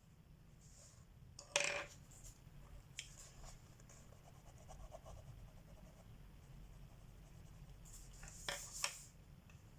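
Colored pencil scratching faintly on paper, with sharp clicks of wooden pencils knocking about a second and a half in and twice more near the end.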